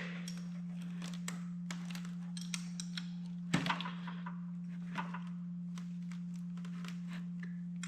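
Scattered light clicks and taps of metal parts being handled and fitted as a tractor hydraulic pump is reassembled by hand, with louder knocks about three and a half and five seconds in. A steady low hum runs underneath.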